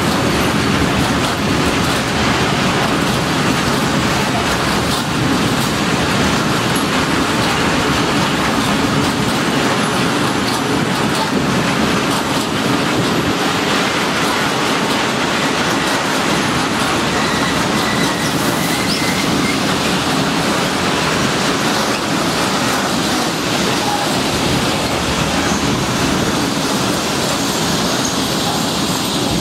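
Freight train of open coal wagons rolling past: the steady noise of steel wheels running over the rails, easing slightly as the last wagon goes by near the end.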